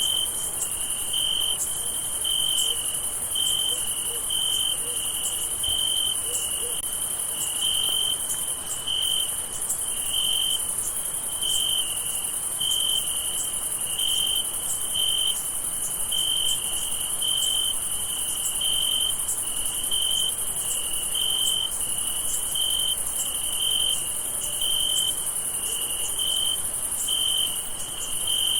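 Crickets chirping in a summer night chorus. A steady high-pitched trill runs under a lower chirp that repeats evenly, a little more than once a second.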